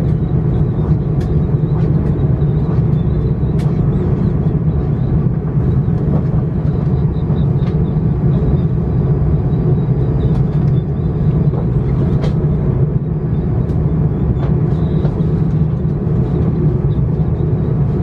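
Steady low rumble inside the cabin of an Airbus A330-900 airliner on the ground, with its Rolls-Royce Trent 7000 engines running and faint scattered clicks and rattles from the cabin.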